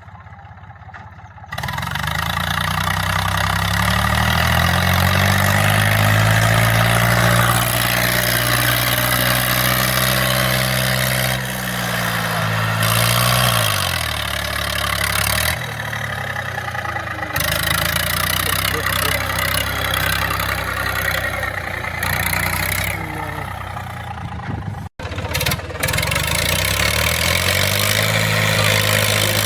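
Eicher 333 tractor's three-cylinder diesel engine running and revving, its pitch climbing and sinking, starting after a quiet second or so. It breaks off abruptly for a moment about three-quarters of the way through, then runs on.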